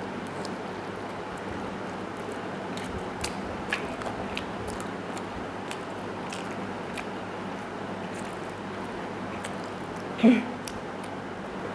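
Close-miked eating: scattered small clicks and smacks of chewing soft rice and chicken stew over a steady hiss, with one brief, louder low-pitched sound near the end.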